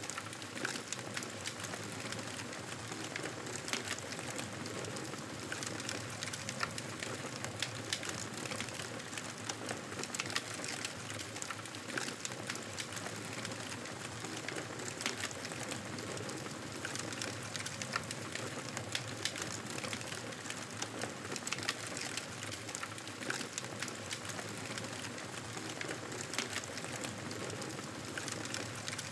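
Campfire burning, a steady hiss of flames with frequent sharp crackles and pops of burning wood.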